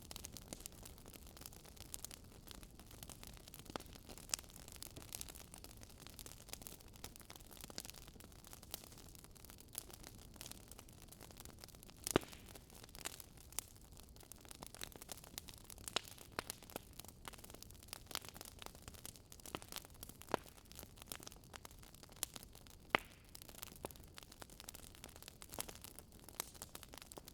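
Wood fire crackling faintly: irregular sharp pops and snaps over a soft steady hiss, with a louder pop about twelve seconds in.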